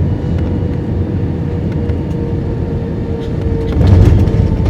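Cabin noise inside an Airbus A320 with IAE V2500 engines: a steady low rumble and a constant hum. It swells about four seconds in, with a few sharp knocks.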